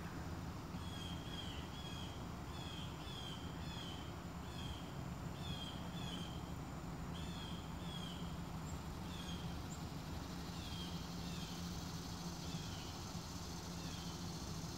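A bird calling over and over with short, high chirps, often in pairs, about once a second. A steady low hum and faint outdoor background noise sit underneath.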